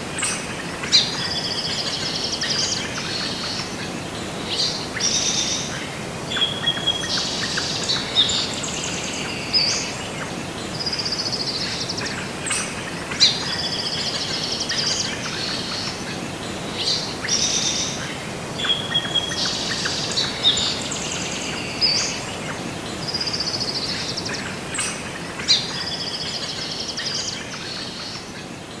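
Songbirds chirping and singing over a steady outdoor hiss. The same run of calls repeats about every twelve seconds.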